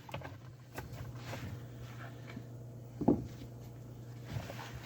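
Faint clicks and knocks of a removed garbage disposal unit being handled and turned over, with one louder clunk about three seconds in, over a low steady hum.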